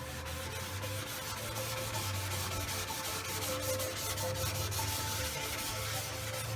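Hand block-sanding of a car door panel with 400-grit sandpaper on a soft sanding block: steady, rapid back-and-forth scratching strokes as the finer grit smooths out the coarser sand scratches before sealer.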